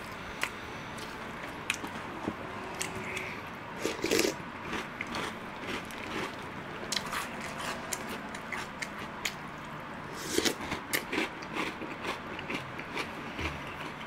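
Close-miked eating: chewing with many short crunches and mouth clicks, bunched most thickly about four seconds in and again about ten seconds in, and an orange plastic spoon scraping through chocolate cereal balls in milk in a glass bowl.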